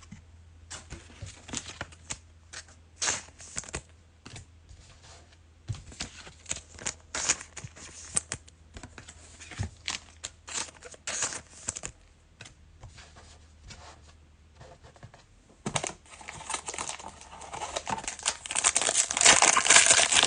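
Trading cards being handled, a run of light clicks and snaps. Then a foil card-pack wrapper is crinkled and torn open, the crinkling growing louder toward the end.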